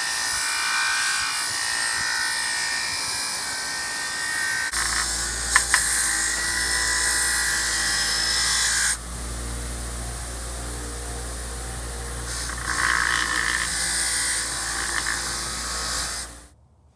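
High-pitched small power tool running steadily against metal, with abrupt changes in its sound about five and nine seconds in. It stops shortly before the end.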